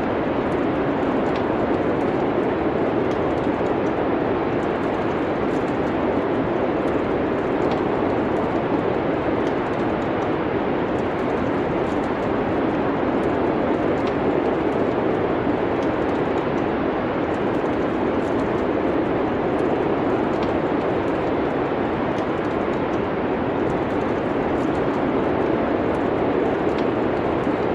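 Wood fire crackling in a fireplace: scattered small pops over a steady low rush of noise.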